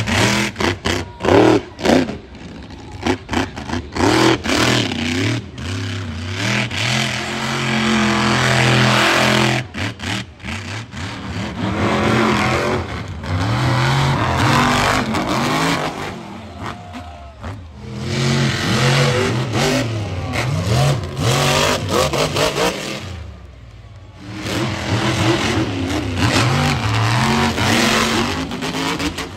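Monster truck engine revving hard and repeatedly, rising and falling in pitch, with a quick string of sharp bangs in the first couple of seconds. It drops off briefly near the end, then revs up again.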